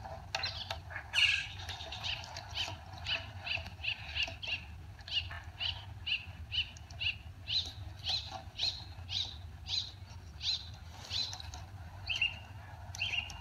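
A bird chirping over and over, short high chirps about two a second, over a steady low hum, heard through a tablet's speaker.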